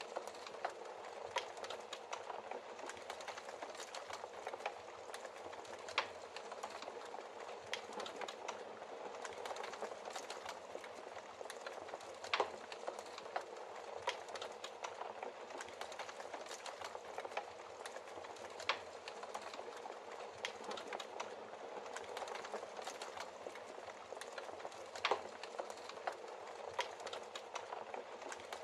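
Wood logs burning in a fireplace, crackling steadily with many small snaps and a few louder pops every several seconds.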